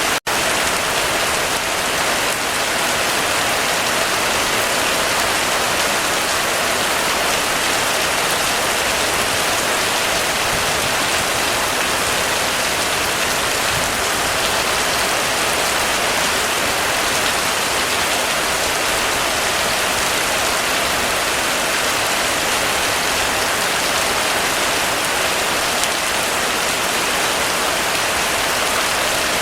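Heavy rain falling steadily, a dense even hiss of rain on surfaces. There is a momentary dropout in the sound just after the start.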